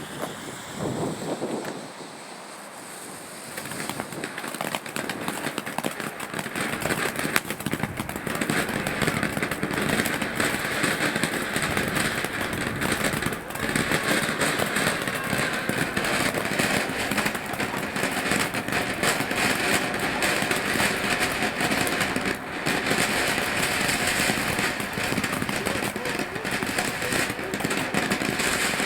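Small garden firework fountain from a Cube Fireworks Jaguar selection box burning: after a brief quieter moment it builds about four seconds in to a steady rushing hiss with fine crackling, which holds to the end.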